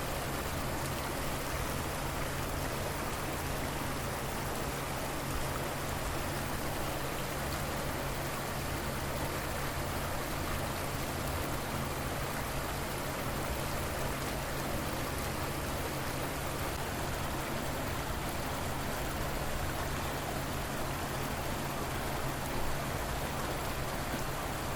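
River water flowing steadily, an even rushing wash with no breaks or changes.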